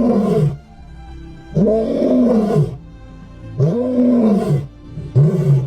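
A big cat roaring: four deep calls about a second or two apart, each rising and falling in pitch.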